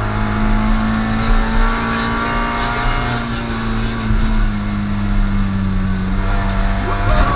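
Rally car engine heard from inside the stripped, roll-caged cabin, held at steady high revs under load with road noise underneath. The revs sag slightly late on and drop sharply right at the end.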